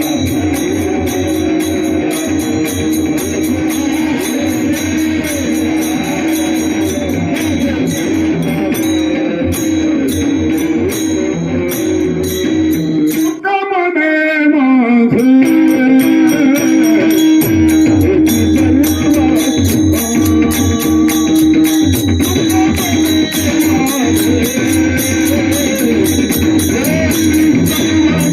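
Varkari kirtan singing: a male voice sings a classical-style line over a steady drone, with jingling cymbal percussion and a pakhawaj drum keeping time. About halfway through, the drum and low accompaniment drop out briefly under a long sliding vocal phrase, then the ensemble returns louder.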